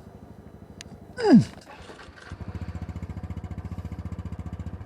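Honda Super Cub 110's single-cylinder four-stroke engine idling with a steady, fast putter that gets louder a little past halfway. A short falling vocal sound comes about a second in.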